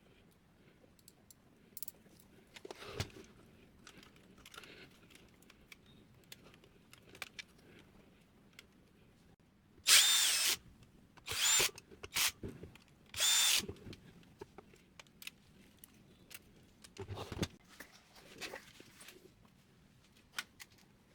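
Electric screwdriver running in three short bursts with a steady whine, about ten, eleven and a half and thirteen seconds in, driving or removing screws in a laser printer. Light clicks and knocks of small parts being handled come between the bursts.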